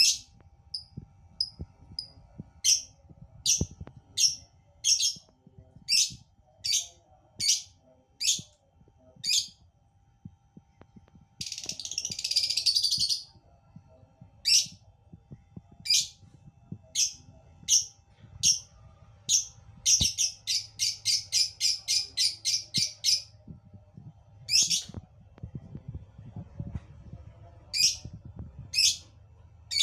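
Lovebird giving sharp, high chirps, about one a second, with a harsh, noisy chattering burst before the middle and a fast run of chirps, about four a second, a little after it.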